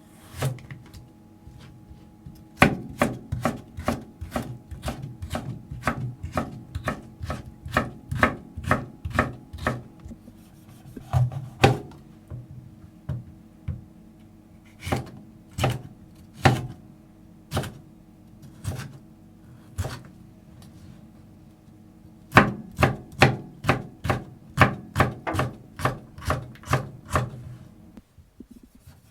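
Kitchen knife chopping on a wooden cutting board, in runs of quick strokes about three a second, with pauses between runs.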